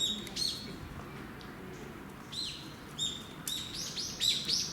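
Small birds chirping: short, downward-arching chirps, a couple near the start, one about two and a half seconds in, then a quicker run of them in the last second and a half.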